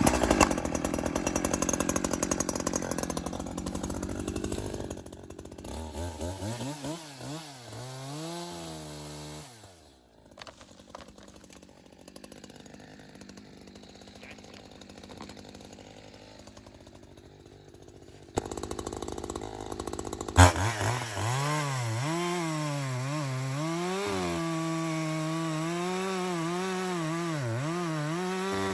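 Echo CS-620 two-stroke chainsaw felling a dead ash tree: it cuts under load, revs up and down, drops quieter for several seconds, then runs steadily at high revs with brief dips. A sharp knock comes about 20 seconds in.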